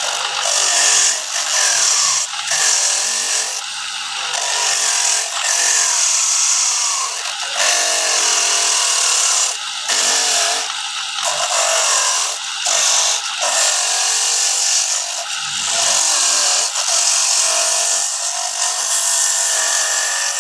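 Electric coconut grating machine running and grating coconut, a harsh steady rasp whose loudness rises and falls repeatedly.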